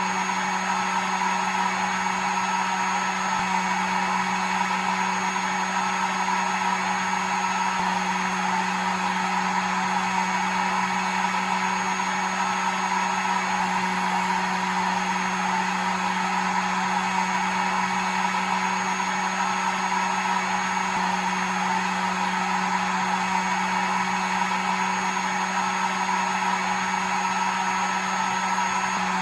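Hair dryer running continuously: a steady motor hum under an even rush of blown air, with no change in speed.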